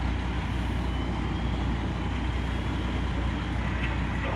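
A heavy truck engine running steadily, a continuous low rumble under an even wash of outdoor noise.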